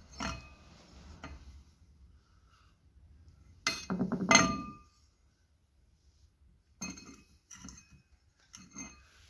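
Sharp metallic clinks and knocks from an old and a new car water pump being handled and held against each other to match them up. The loudest cluster of clinks comes about four seconds in, with a few lighter knocks later.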